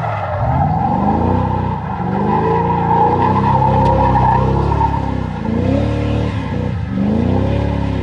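Car V8 engine revving up and down over and over, with a steady high squeal of spinning tires running through it, as in a burnout.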